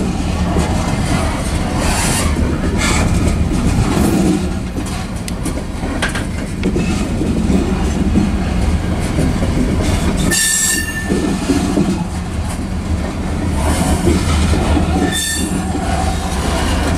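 Covered hopper cars of a grain train rolling past: a steady rumble of steel wheels on the rails with scattered clicks over the joints. There are brief high wheel squeals about ten seconds in and again near the end.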